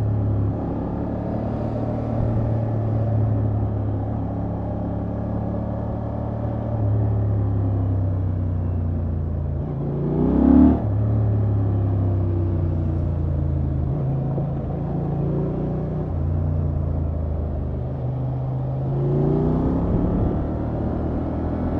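Honda XL750 Transalp's parallel-twin engine through its stock exhaust, running at part throttle with engine speed stepping up and down. About halfway through, a quick rev rises sharply and peaks as the loudest moment, and the revs rise again near the end.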